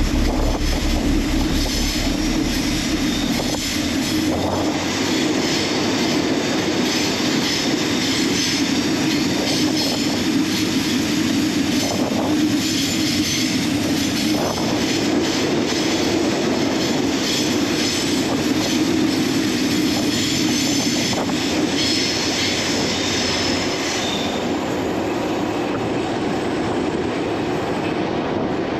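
Locomotive T386 running through a rail tunnel: a steady rumble of wheels on rail, echoing off the tunnel walls, with wheel squeal coming and going.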